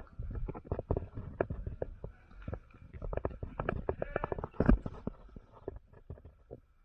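Irregular clicks and knocks over a low rumble, with one louder knock a little past two-thirds of the way through.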